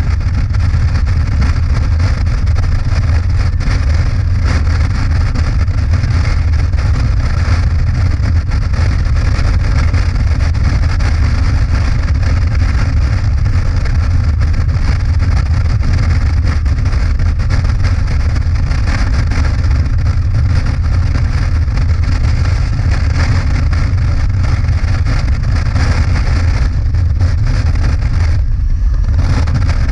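Motorcycle running steadily at road speed, a loud constant engine rumble with rushing wind over it; the higher part of the rush dips briefly near the end.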